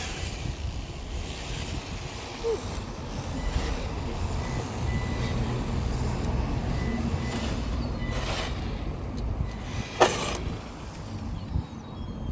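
1/10-scale electric RC car driving on the road, its motor and tyres heard over a steady low rumble, with a sharp knock about ten seconds in.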